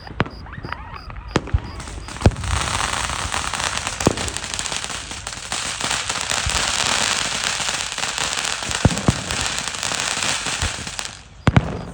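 Fireworks going off: a few sharp bangs, then from about two seconds in a dense, continuous crackle that cuts off suddenly near the end, followed by a couple more loud bangs.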